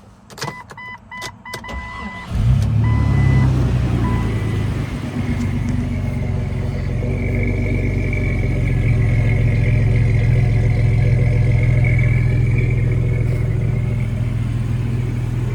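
A few clicks and a warning chime beeping repeatedly, then the 2001 Jeep Cherokee's 4.0-litre straight-six, fitted with a Banks header, starts about two seconds in and runs steadily at idle.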